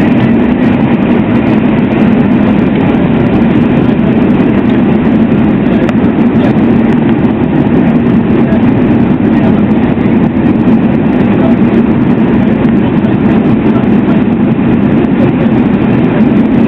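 Steady, loud mechanical drone with a constant low hum and no breaks, like engine noise.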